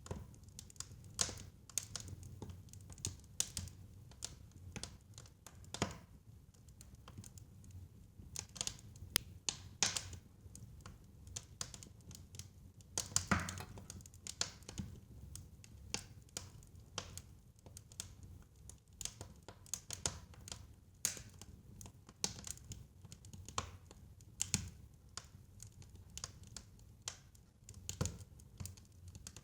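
Fire crackling in a fireplace: irregular sharp pops and snaps, with a louder pop about halfway through, over a low steady rumble.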